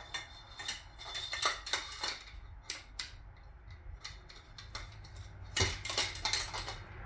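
Light metal clinks and taps as an outboard motor's drive shaft tube is handled and worked into its housing: irregular sharp clicks, bunched about a second in and again near the end.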